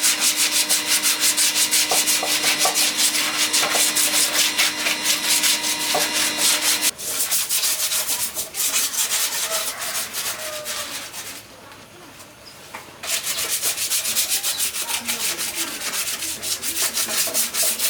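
Sanding by hand with rapid, even rasping strokes. The strokes stop about eleven and a half seconds in and start again about a second and a half later.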